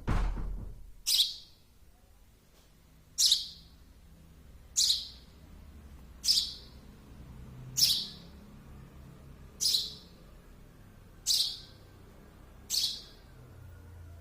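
Baby sparrow chirping: eight short, high chirps at an even pace of about one every one and a half seconds. A low thump sounds at the very start.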